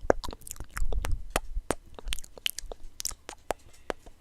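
Close-up fingernail taps and clicks on a small plastic figure as it is handled, irregular sharp ticks with a few soft thuds.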